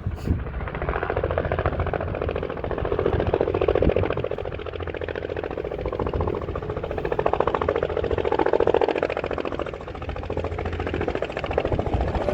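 Helicopter running: a steady engine drone with a fast, even rotor beat that swells and fades in loudness.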